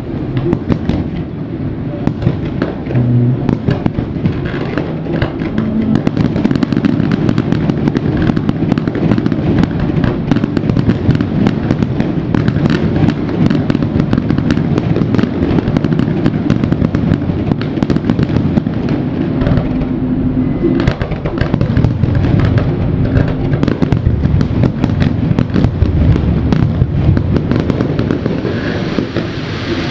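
Aerial fireworks shells bursting in a dense, continuous barrage of bangs and crackles, with a heavy low rumble underneath.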